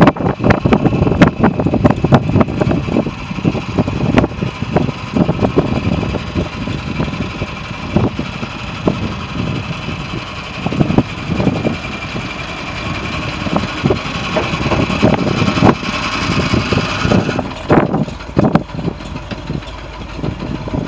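Ford grain truck's engine running, with many irregular clicks and knocks over the steady rumble. A higher band of sound through the middle stops suddenly near the end.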